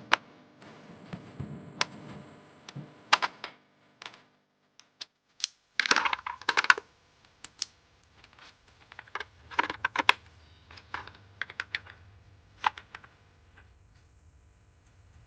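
Irregular clicks, taps and knocks of small objects being handled, with a dense flurry of clatter about six seconds in.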